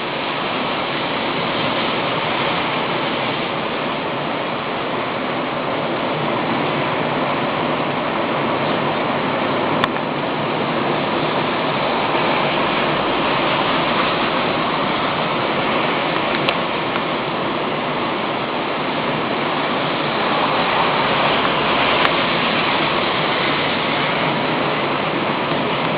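Rough sea surf on a rocky shore: a loud, steady rush of breaking and washing waves, stirred up by what the uploader takes for an approaching typhoon. A few small clicks sound over it.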